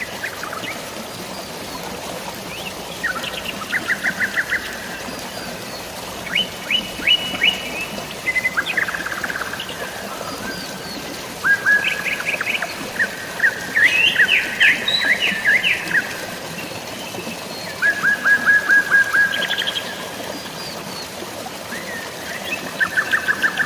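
Several birds singing in repeated rapid trills and chirps, some series of quick even notes, over a steady wash of flowing water or rain.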